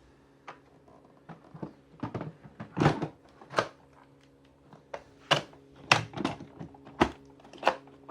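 Hard plastic clicking and knocking as the dust container of a Miele Blizzard CX1 vacuum cleaner is handled: about a dozen irregular sharp clacks, several of them loud.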